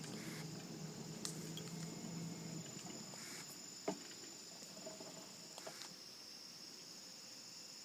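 Evening insect chorus, crickets trilling steadily and high-pitched. A faint low hum stops about two and a half seconds in, and there is a single click near the middle.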